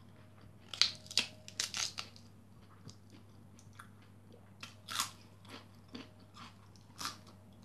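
Crunchy food being bitten and chewed close to the microphone: three short spells of crisp crunches, about a second in, around five seconds in and again near the end.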